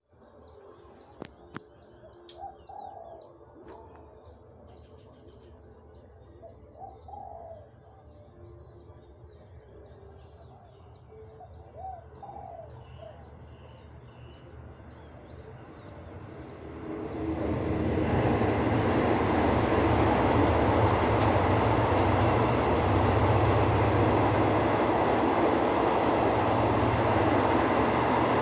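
Birds chirping and a dove cooing a few times over quiet ambience. About seventeen seconds in, an approaching diesel-hauled passenger train quickly swells into a loud, steady rumble and rush as its carriages run past.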